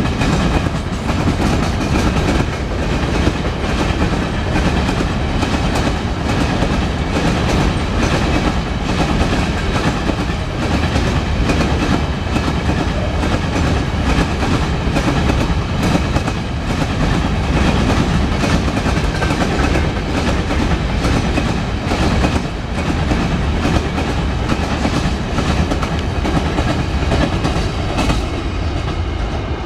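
Freight train of open-top gondola wagons rolling past at speed, its wheels clattering steadily over the rail joints; the sound shifts near the end as the scene changes to another passing wagon.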